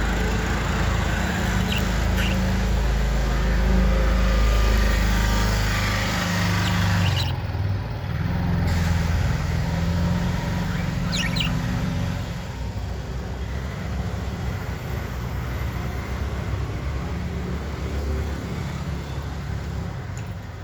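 Low engine rumble of a road vehicle, loudest in the first half and fading off, with a few faint budgerigar chirps.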